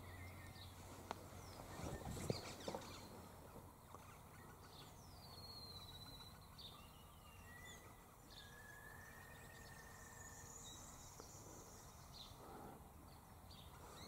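Quiet outdoor background with faint, distant bird calls: a high whistle that falls in pitch about five seconds in, then a longer, steadier whistle. A few soft knocks come early on.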